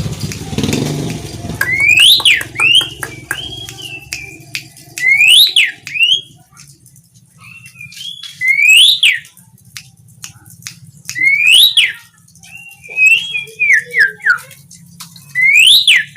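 Asian pied starling (jalak suren) singing: loud whistled notes that rise and then fall, repeated about every three seconds, with rapid clicking chatter and short warbling phrases between them.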